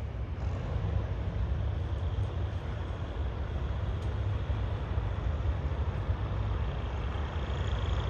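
Train running past, a steady low rumble with a faint high tone coming in near the end.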